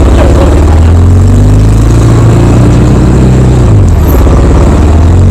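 Loud vehicle engine accelerating, its pitch climbing steadily and then dropping back about four seconds in.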